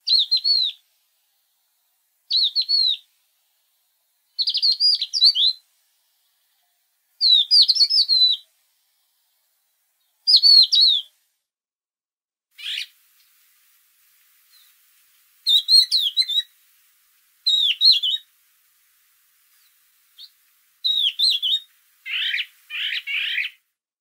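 A songbird singing: short, high warbled phrases of about a second each, repeated every two to three seconds, with a lower phrase near the end.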